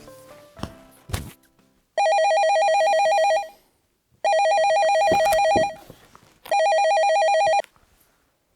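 Telephone ringing three times: an electronic warbling ring of two rapidly alternating tones, each ring a second or so long with short gaps between. Before the first ring, a few notes of music end and a single thump sounds about a second in.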